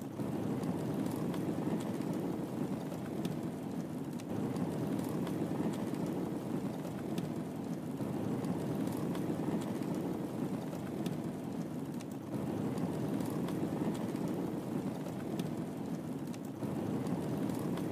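Wood fire crackling in a fireplace: a steady low rumble of burning with scattered small, sharp pops and snaps.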